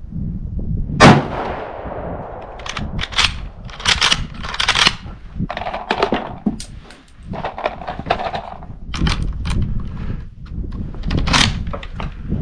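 A single gunshot about a second in, followed by repeated metallic clicks and clatter of a rifle's straight-pull action being worked while trying to get a round to feed.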